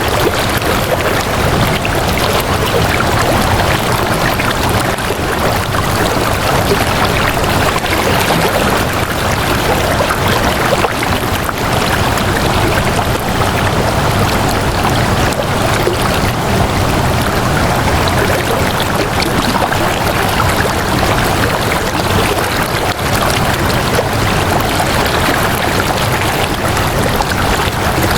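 Steady rushing of flowing water, an even, unbroken wash of sound that neither builds nor drops.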